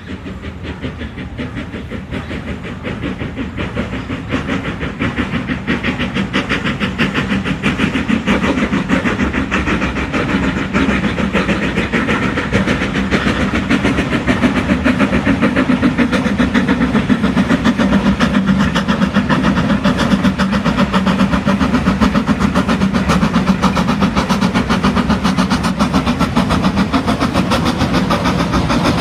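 A locomotive working on the line, its running beat fast and even, growing louder over the first ten seconds or so as it draws near, then holding steady.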